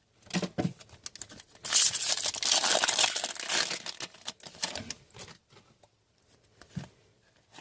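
Handling of trading cards and a foil card pack: a dense crinkling rustle of the wrapper for about two and a half seconds, starting a couple of seconds in, among lighter clicks and rustles of cards being handled.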